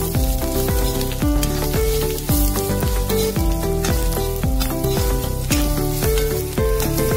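Green chillies and spices sizzling in hot oil in a kadhai as a spatula stirs them, under a background music track with a stepping melody and bass line.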